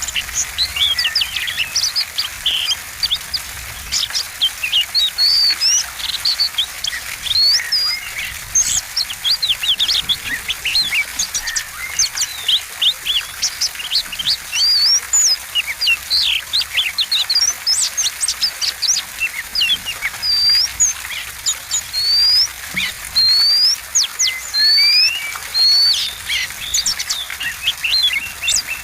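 Oriental magpie-robin (kacer) singing a fast, unbroken song of varied whistles, chirps and rising and falling sweeps, packed with mimicked phrases.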